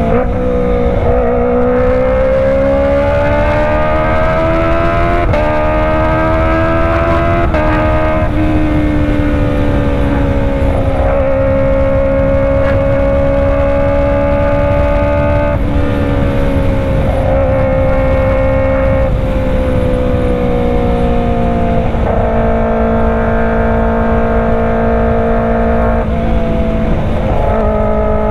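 Kawasaki ZX-25R's 250 cc inline-four, fitted with a Racefit Slash full-system exhaust, running at mid-to-high revs. The pitch climbs and falls slowly, with several sudden steps along the way.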